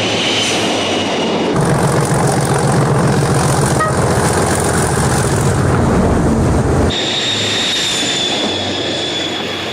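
Train running on rails, with a high steady wheel-squeal whine over the running noise. The sound changes abruptly about a second and a half in and again about seven seconds in, with a heavier rumble in between.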